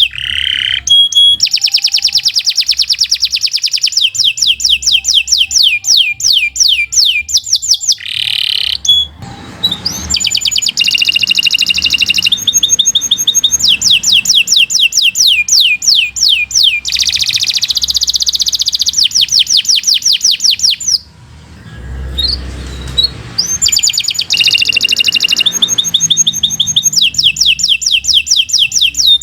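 Domestic canary singing a long, loud song made of runs of rapidly repeated high notes, the trills changing from one run to the next, with a brief break about 21 seconds in.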